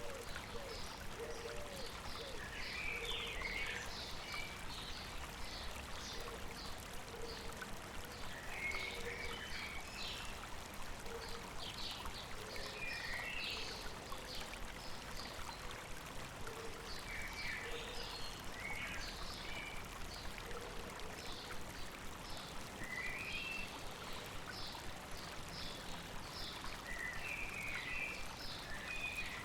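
River water flowing steadily over rocks, with birds chirping and singing in short bursts every few seconds and a lower short call repeating near the start and through the middle.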